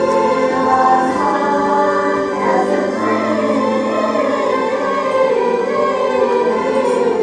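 A choir singing a song, with steady instrumental accompaniment underneath.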